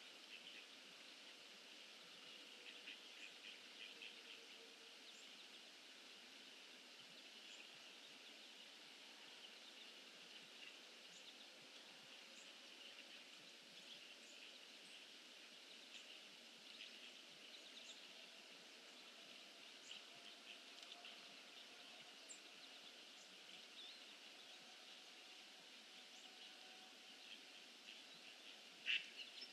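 Near silence: faint outdoor ambience with a steady hiss and scattered tiny ticks and chirps, and one sharper click near the end.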